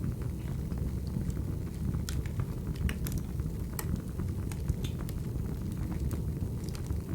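Wood fire burning: a steady low rumble with scattered sharp crackles and pops of the burning logs.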